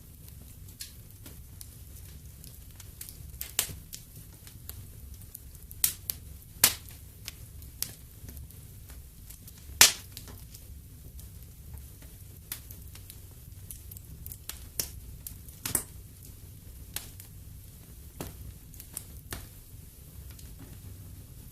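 Wood fire burning in a fireplace, with irregular sharp crackles and pops over a low steady rumble; the loudest pop comes about halfway through.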